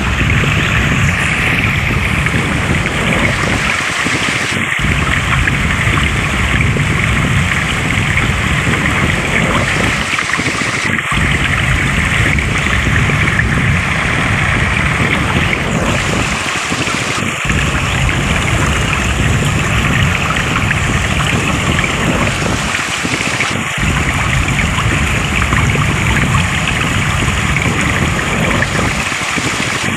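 Flowing water rushing steadily, a continuous hiss over a low rumble. The low rumble briefly dips about every six seconds.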